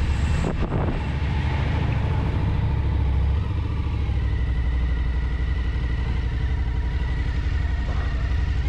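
Motorcycle engine running at a steady low idle, with a couple of brief knocks about half a second in.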